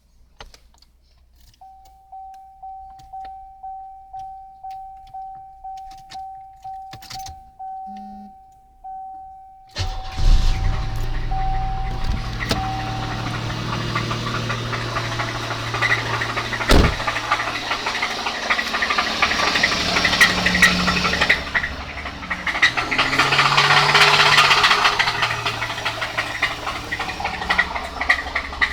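A car's warning chime pings about twice a second. Then the 1987 Pontiac Bonneville's engine starts abruptly about ten seconds in and runs with a rough, knocking clatter: a blown connecting rod. There is one sharp bang partway through, and the engine gets louder for a few seconds near the end.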